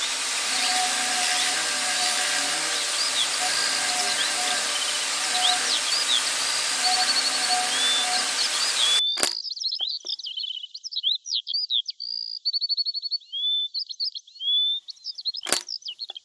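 Small birds chirping, with a short even trill, over a steady hiss that cuts off suddenly about nine seconds in. The birdsong then carries on alone, sounding thin.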